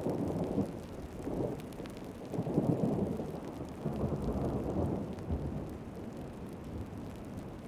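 Thunder rumbling over heavy rain. The rumble swells about two to three seconds in and dies away toward the end, with the patter of drops behind it.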